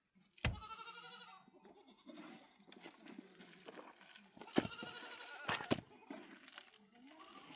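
Goat bleating: two long wavering bleats, one near the start and one about halfway, and a fainter one near the end, with a few sharp knocks in between.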